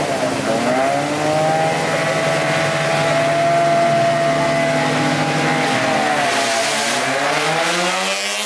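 Car engine revving hard: the pitch climbs, holds high and steady for several seconds, then drops and climbs again near the end.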